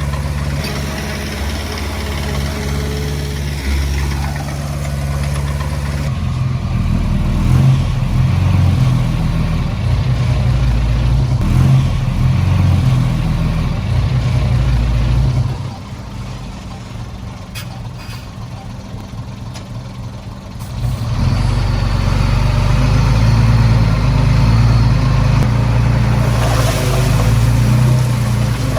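Heavy diesel engine running under load. It works harder from about six seconds in, eases off for about five seconds in the middle, then pulls hard again.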